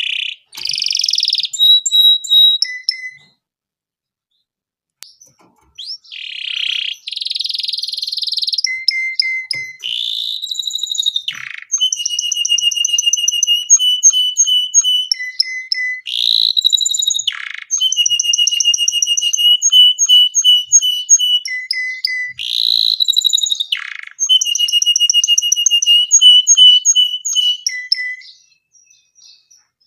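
Domestic canary singing a long song of rapid trills and sweeping notes, with a short pause about four seconds in. From about ten seconds in, the same phrase repeats three times: a rising sweep followed by a long fast trill.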